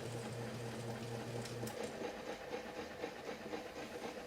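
A 1971 Hunter ceiling fan's electric motor, on a bench test, runs with a steady low electrical hum that stops abruptly a little under two seconds in. A fainter, even whirring with a light rattle carries on after the hum stops.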